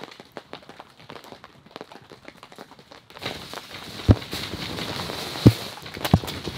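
Snow and ice sliding and pattering down the plastic sheeting of a cattle panel greenhouse as the frame is shaken, heard from inside. Scattered ticks at first, then a steady rushing slide with three heavy thumps of falling clumps in the second half.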